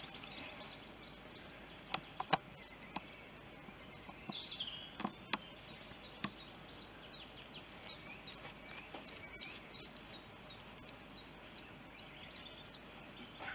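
Wild birds chirping and singing over a faint steady outdoor hiss, with a few sharp clicks or knocks, the loudest of them about two seconds in.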